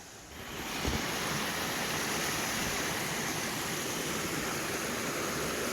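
Water rushing steadily over a small cascade into a pool, swelling up about half a second in and then holding level.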